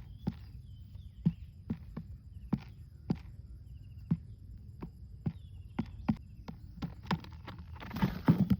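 A series of sharp knocks or taps at an uneven pace, about two a second, over a faint steady high tone, with a brief burst of rustling near the end.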